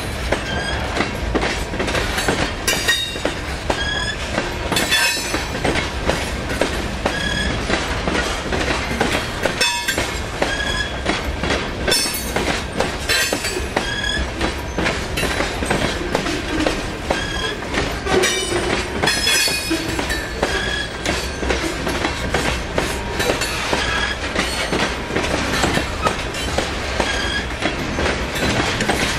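A freight train's cars rolling steadily past, wheels clicking over the rail joints, with short high wheel squeals now and then.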